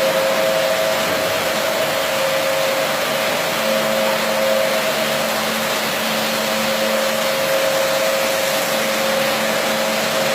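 Carpet washing machine running steadily, a constant whine over an even rushing hiss.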